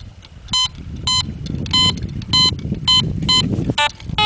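Metal detector sounding a target tone: a short, high electronic beep repeated about every half second, with one lower, different beep near the end. A strong, repeatable signal reading 81 on the detector, which he calls a bottle cap kind of sound but a screaming signal.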